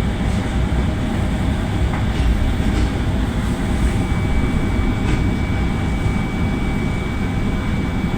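Train running on the rails, a steady heavy rumble, with a thin high squeal held from about halfway through.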